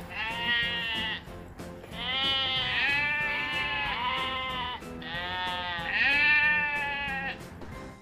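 Sheep bleating: about six long bleats in a row, over steady background music.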